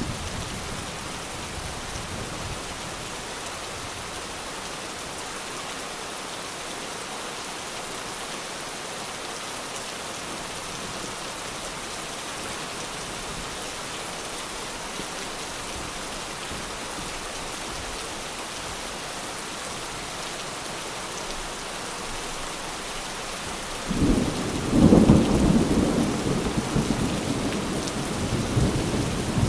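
Steady rain falling, an even hiss, with the last of a thunder roll fading at the start. Near the end a loud, low roll of thunder breaks in and rumbles on.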